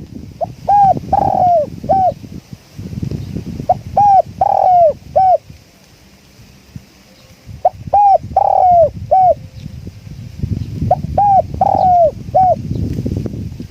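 Spotted dove cooing: four phrases of three or four coos, the longer note in the middle, repeated every three to four seconds. Wind rumbles on the microphone underneath.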